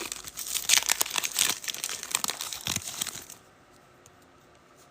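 Crinkling and tearing of a plastic or foil wrapper handled at close range, a dense run of crackles that stops about three seconds in.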